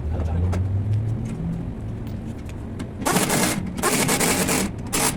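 Impact wrench rattling in three bursts, a short one, a longer one and a brief last one, starting about three seconds in, likely running a nut off or on during the shock absorber job. A low hum comes before it.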